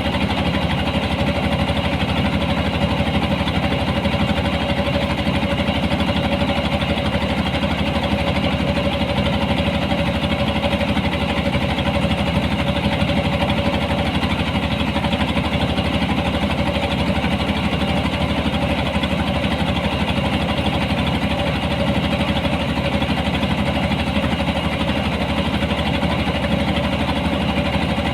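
Engine of a harvesting machine running steadily at constant speed, with no change in pitch or loudness.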